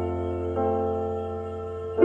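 Slow piano music: a chord rings on and fades, and a new chord is struck about half a second in and slowly decays.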